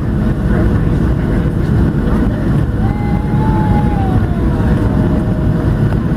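Loud, steady rumble of a Boeing 737-700's engines and rushing air heard inside the passenger cabin, with a faint thin tone that wavers and slides down in pitch for a couple of seconds in the middle.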